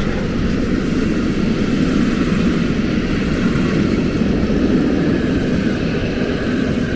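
Steam-hauled train passing close by: a loud, steady rumble that eases off only after it has gone past.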